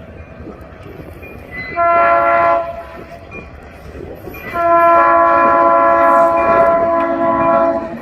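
Diesel locomotive air horn sounding a chord of several notes at once: a short blast about two seconds in, then a long blast from about four and a half seconds until near the end, over the low rumble of the passing train. The short-then-long pattern matches the close of the standard grade-crossing horn signal.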